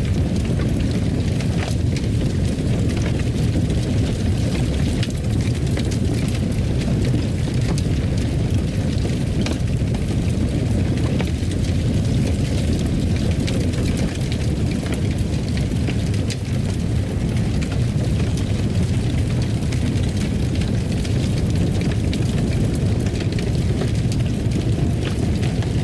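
Fire crackling in a fireplace: a steady low rumble of the flames with scattered small crackles and pops.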